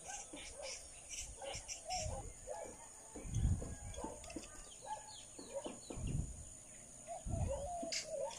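Several small birds chirping and calling, many short notes throughout, with a few low rumbles in between, the loudest about three seconds in.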